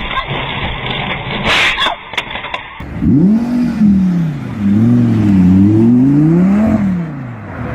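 Two sharp knocks in the first two seconds, then a car engine revving up and down several times for about four seconds before settling back.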